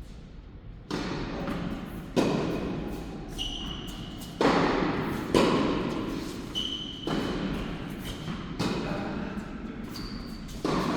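Tennis rally on an indoor court: about seven sharp ball hits and bounces a second or two apart, each ringing on in the hall's echo, with a few short high squeaks between them.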